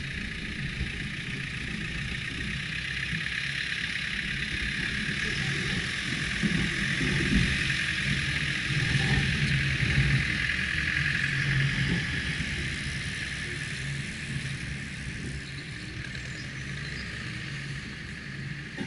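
Subaru Forester's flat-four engine running as the car drives through deep mud, a low steady rumble with a hiss over it. Both grow louder through the middle and ease off again near the end.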